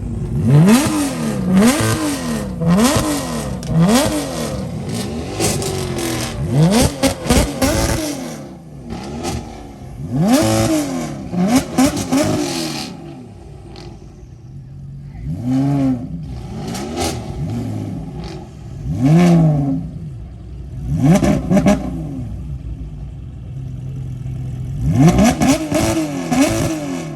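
A sports car engine is revved over and over in quick blips, its pitch shooting up and falling back about once a second at first, then in separate groups of revs with pauses between, with sharp crackles mixed in.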